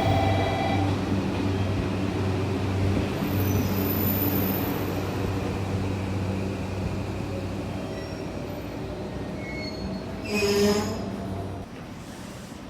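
JR Kyushu 821 series AC electric train running slowly at a platform, with a steady electrical hum that slowly fades. About ten and a half seconds in there is a brief louder burst of noise, and the hum stops soon after.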